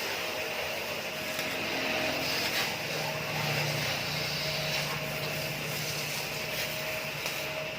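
A small lawn-mower engine running steadily on a homemade four-wheeler, with a low hum that strengthens in the middle of the stretch.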